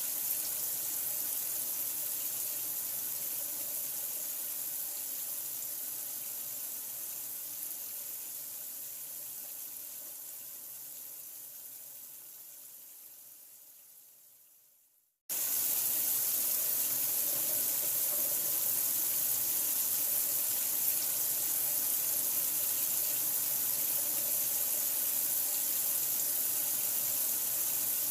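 Steady rushing of running water, a constant white-noise-like stream. It fades out gradually to silence over the first half, then cuts back in suddenly at full level, as at the joint of a looped recording.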